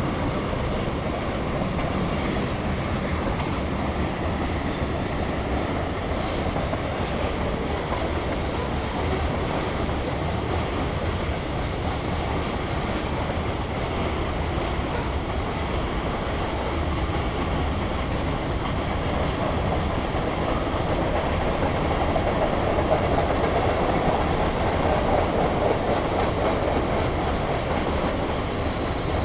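CSX mixed freight train rolling past, a steady rumble of the cars' wheels on the rails that grows a little louder about three-quarters of the way through. A brief high wheel squeal about five seconds in.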